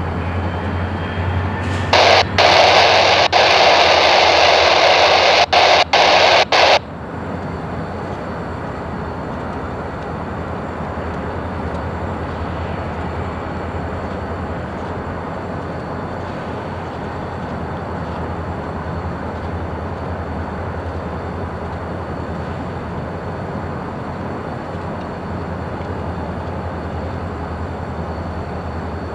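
Diesel locomotive running with a steady low rumble. About two seconds in, a burst of radio static lasts about five seconds, flickering off briefly a few times before cutting off abruptly.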